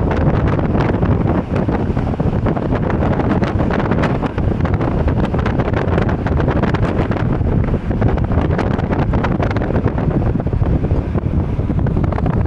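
Wind buffeting the microphone of a moving car, over steady road and engine noise.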